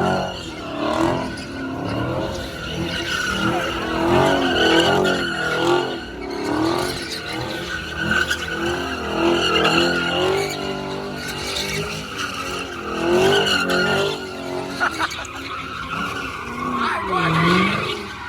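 Car doing a burnout: the engine revs up and down over and over while the spinning tires squeal and skid.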